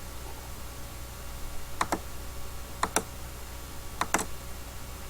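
Computer mouse clicking: three quick pairs of clicks spaced about a second apart, over a faint steady low hum.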